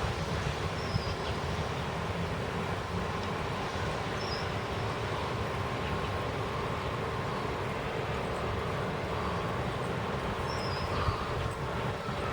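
Steady outdoor rumble with a strong, fluttering low end, and three short high chirps spread through it.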